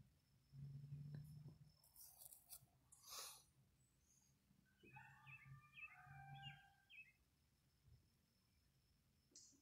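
Near silence of an outdoor yard. A bird gives a brief run of soft chirps about halfway through, after a couple of faint rustling noises.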